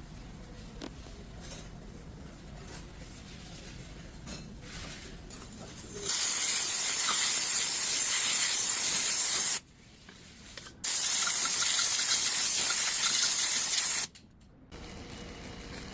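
Two long bursts of hissing spray, each about three seconds, switched on and off abruptly, with a short pause between them.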